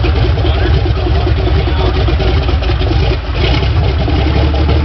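The 1908 Knight Daimler four-cylinder sleeve-valve engine running steadily with a rapid, even beat.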